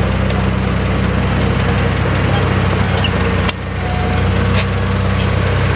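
Dump truck's diesel engine running steadily, with a sharp click about three and a half seconds in.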